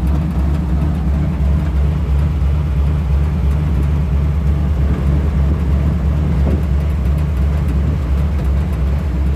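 Pickup truck's engine and road noise, a steady low hum, as it pulls away from a green light.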